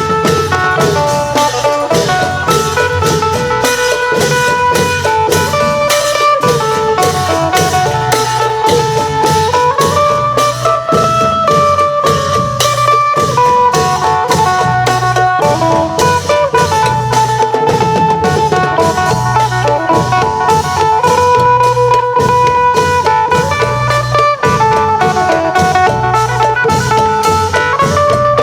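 Isan klong yao long-drum ensemble playing a steady rhythm under a phin (plucked Isan lute) melody that steps between notes, with regular sharp strikes of hand cymbals or drums keeping the beat.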